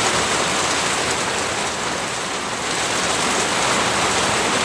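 Steady rain falling hard during a thunderstorm, an even hiss.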